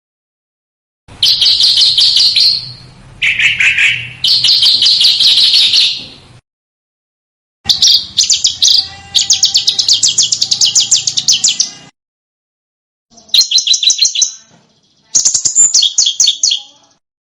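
Small songbird singing in bursts of fast, sharp chattering trills, each phrase about one to four seconds long. The phrases are separated by abrupt silences, as in an edited masteran recording used to teach competition songbirds.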